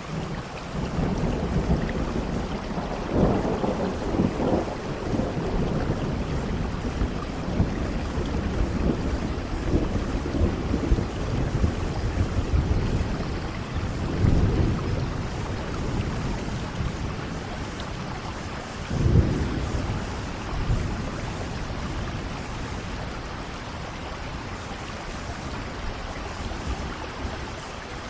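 Steady rain with thunder rolling through. A long low rumble starts right away and swells several times, with one sharper clap about two-thirds of the way in, then the thunder dies down near the end, leaving the rain.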